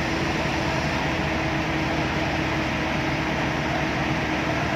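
A motor running steadily, a constant hum with an even rushing noise over it.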